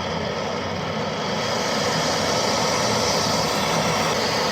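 Heat gun running steadily, blowing hot air onto a seized front steering-knuckle fastener to loosen it.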